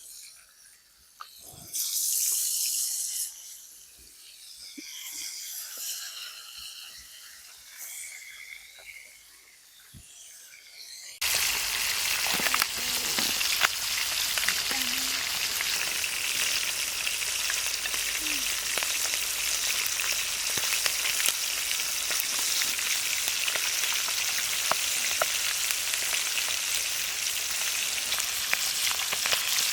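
Fish cooking, sizzling with fine crackle. A quieter stretch of faint hiss and scattered ticks comes first; about eleven seconds in, a loud, steady sizzle starts abruptly and goes on.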